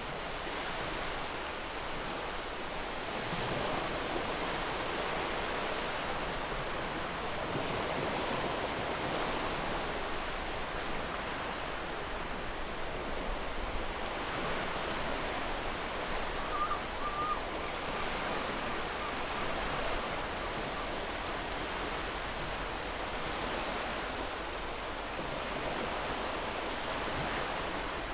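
Steady outdoor rushing noise that swells and eases slowly, with one brief faint high note about two-thirds of the way through.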